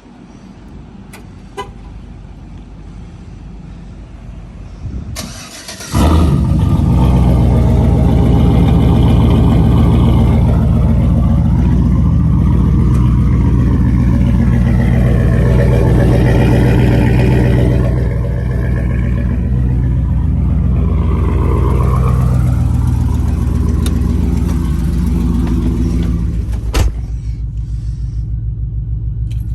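Chevy Avalanche V8 starting about six seconds in and idling loudly through a muffler-delete exhaust (3-inch pipe, no muffler); the idle steps down twice later on.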